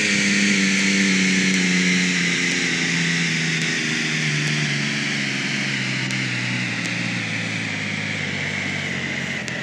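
Simulated Porsche 911 Turbo engine sound from an iPhone app, its engine note falling steadily in pitch as the car slows in first gear. A higher whine falls along with it.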